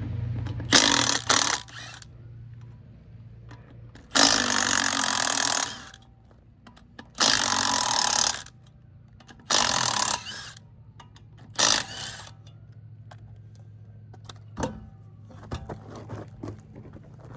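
Impact wrench hammering in five bursts of one to two seconds each, loosening 19 mm nuts on a car's wheel assembly.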